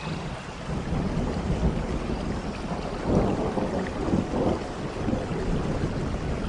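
Steady rainfall with a deep rumble of thunder that comes in at the start and swells about three seconds in.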